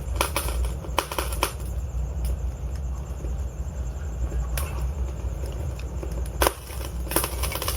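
Log fire in a fireplace crackling, with irregular sharp pops and snaps over a low, steady rumble of the flames.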